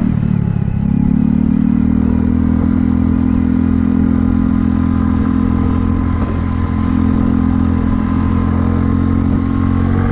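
Kymco People 250 scooter's single-cylinder four-stroke engine running under way, its pitch rising in the first second or so and then holding steady. Its exhaust leaks are freshly plugged with JB Weld high-heat epoxy.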